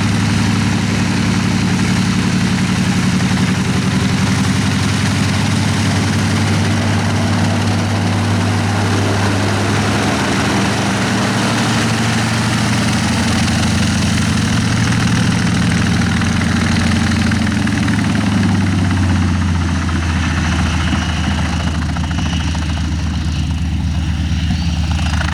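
Nanchang CJ-6's nine-cylinder radial engine running steadily at low power, the propeller turning. The engine note shifts slightly a couple of times.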